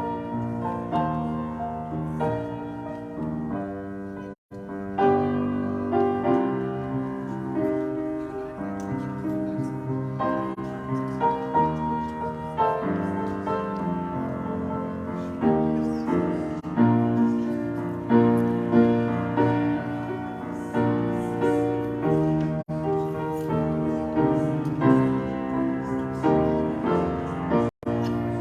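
Piano music playing sustained chords and melody, broken by two brief dropouts in the sound, one about four seconds in and one near the end.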